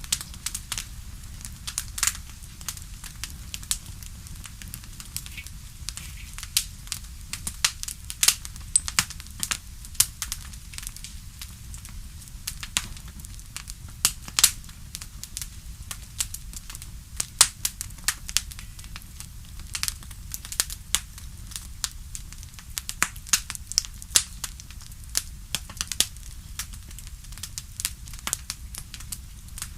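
Bonfire crackling, with irregular sharp pops and snaps of varying loudness over a low steady rumble.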